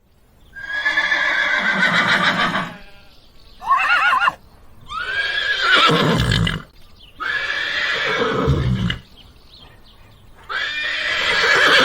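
Horse whinnying about five times in a row, each neigh a wavering, pitched call lasting one to two seconds, with a short quavering one among them.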